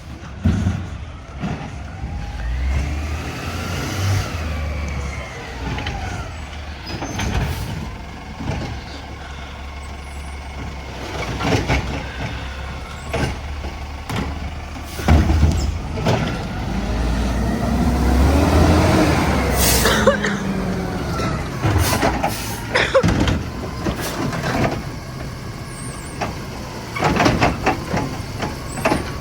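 Mack garbage truck working its collection: the diesel engine revs up and falls back twice as the hydraulics run, over a steady low rumble, with repeated clanks and bangs of carts and the packing gear.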